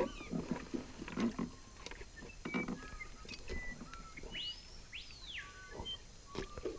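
Tropical forest birds calling: short whistled notes throughout and two long whistles that rise and fall about four to five seconds in. Scattered knocks and rustles sound close by.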